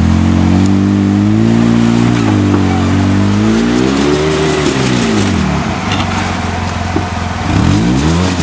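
Polaris RZR 800's twin-cylinder engine pulling under load as it crawls over rocks, held at steady revs at first, then revving up about four seconds in, dropping back, and rising again near the end.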